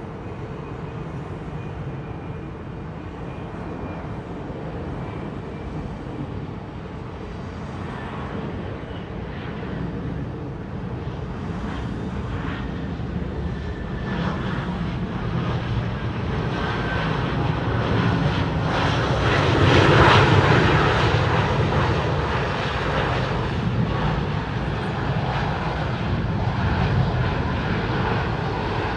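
Bombardier CRJ-700 regional jet with its two rear-mounted GE CF34 turbofans, passing by: the jet noise builds up to its loudest about two-thirds of the way through and then eases off a little.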